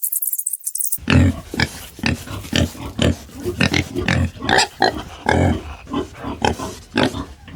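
A jingling rattle cuts off about a second in, followed by many short, low animal grunts, about two a second and overlapping, as from several animals together.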